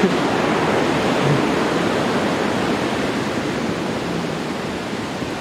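Loud, steady rush of falling water from a waterfall, easing slightly toward the end.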